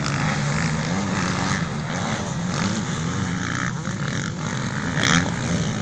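Motocross bike engines racing round the track, rising and falling in pitch as they rev. A short, sharp crack comes about five seconds in.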